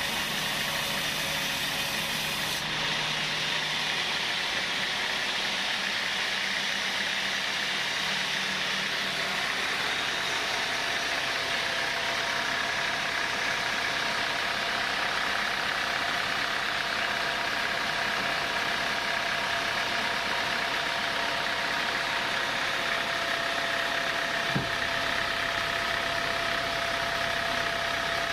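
Sawmill saw machinery running steadily, a constant machine noise with a faint steady whine. A single short knock comes near the end.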